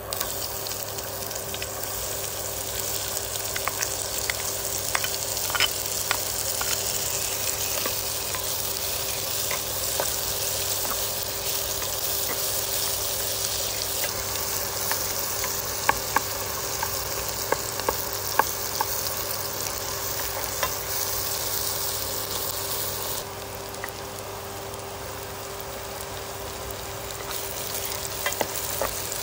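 Chopped garlic and shallots sizzling in hot oil in a nonstick frying pan, the sizzle starting as they go in. A spatula stirs them, with sharp scrapes and taps against the pan now and then.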